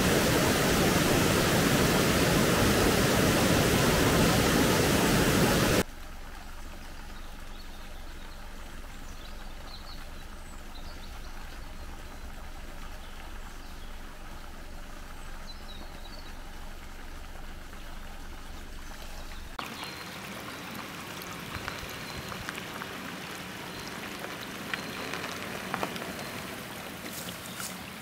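Running water: a loud, steady rush that cuts off abruptly about six seconds in to a much quieter flow of water. A second cut a few seconds before the end brings a faint trickle with small clicks.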